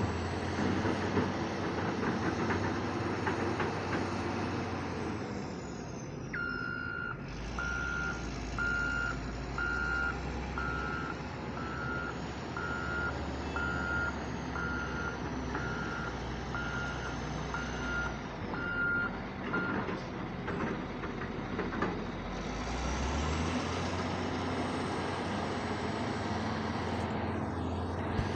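Heavy diesel machinery running steadily, with a reversing alarm beeping about a dozen times, a little over once a second, starting a quarter of the way in and stopping about two thirds through.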